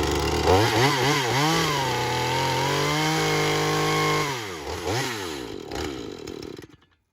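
Chainsaw engine revved up and held at high throttle for a few seconds while a clamp-on sharpening stone grinds the running chain. It then drops back, revs briefly once more, and cuts off near the end.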